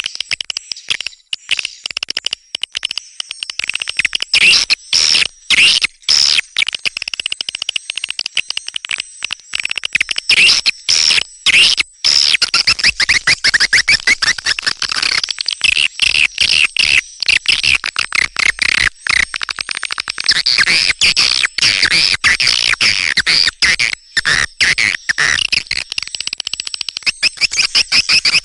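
Swiftlet calls: many birds twittering together in rapid clicking chirps, high-pitched and unbroken, growing into a denser chatter about halfway through. This is the 'netral' swiftlet call track of the kind played from speakers to lure edible-nest swiftlets into nesting houses.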